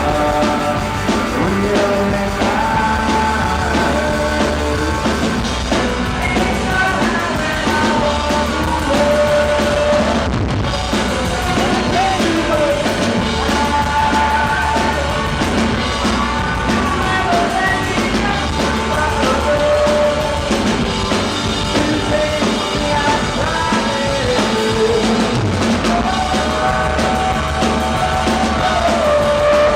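Rock band playing a song live, with a singer's melody over guitars, bass and drums.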